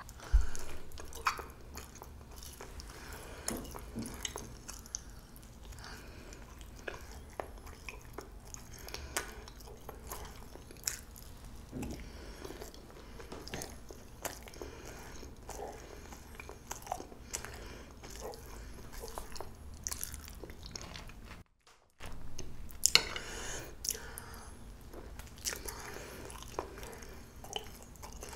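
Close-miked chewing of soft, spongy jeung-pyeon (steamed Korean rice cake), with many small wet mouth clicks as it is bitten and chewed. The sound cuts out briefly about two-thirds of the way through.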